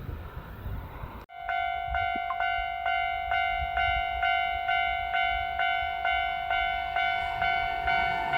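Japanese railway level-crossing warning bell ringing, a repeated electronic ding about twice a second, each ding dying away. Before it starts abruptly about a second in, there is only a low rumbling noise.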